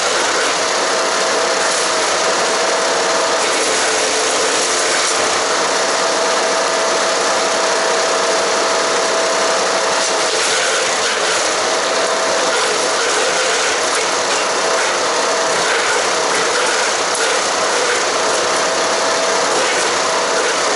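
Haige 15-horsepower wood chipper running and chipping cedar and cypress branches: a steady, dense clatter of wood being shredded over the running engine, with a thin whine that drops out briefly several times.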